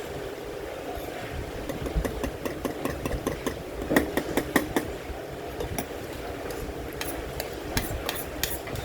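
Eating utensils clicking and scraping against a rice bowl while eating, in two runs of quick light clicks, over a steady background hiss.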